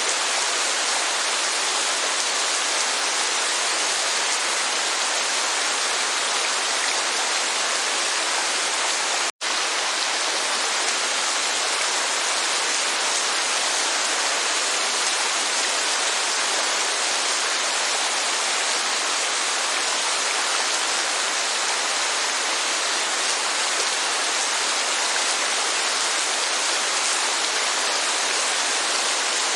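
Steady, even rushing of heavy rain and falling water, cut by a split-second gap of silence about nine seconds in.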